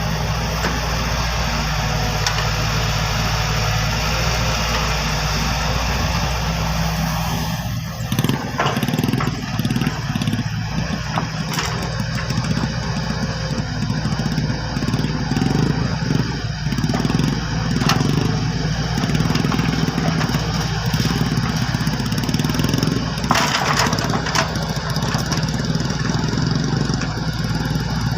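Hydraulic excavator's diesel engine running, steady at first. From about eight seconds in it rises and falls under load as the machine works, with a few sharp knocks.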